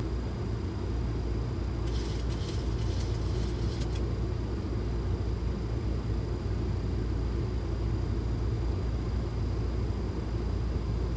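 Steady low rumble of a Boeing 737 flight deck in flight on approach, with a faint steady high whine and a short burst of hiss about two seconds in.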